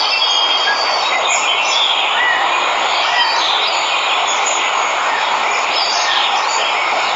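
Steady rush of a waterfall, with birds chirping over it again and again.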